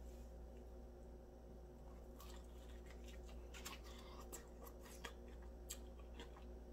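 Faint chewing of a crispy fried chicken drumstick: scattered small crunches and mouth clicks from about two seconds in, over a low steady hum.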